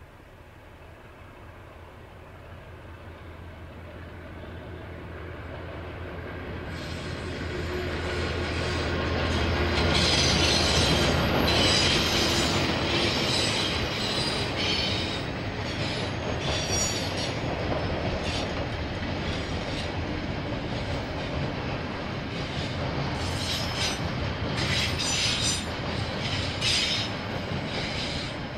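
KiwiRail diesel freight train passing. The locomotives' low engine rumble grows louder as the train approaches and is loudest about ten seconds in. The wagons then roll by with clatter and repeated high-pitched wheel squeal.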